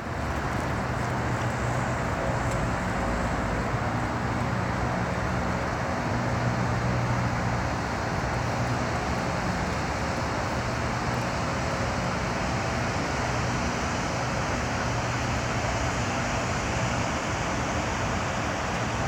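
Steady engine drone: a constant low hum under an even rush of noise, with no change in pitch.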